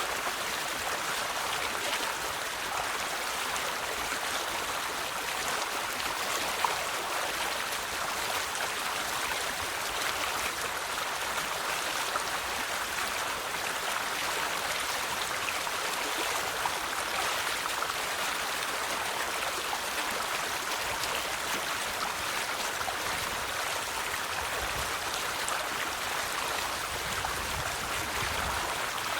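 River water flowing steadily over stones, an even rushing with small splashes and gurgles.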